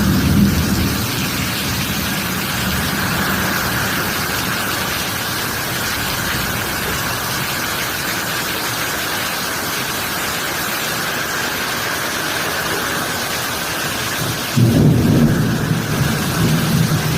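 Heavy rain pouring steadily, with thunder rumbling briefly at the start. A deep low rumble swells up again near the end.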